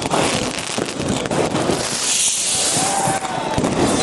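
New Year fireworks going off: a dense run of cracks and crackling bursts, with a hissing shower in the middle.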